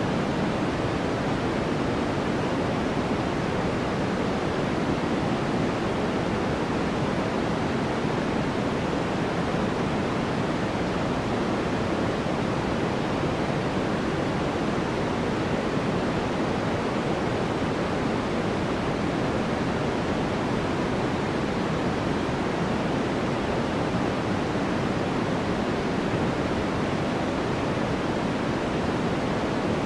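Steady electronic white noise for sleep: an even, unchanging hiss that is heavier in the low end than in the highs.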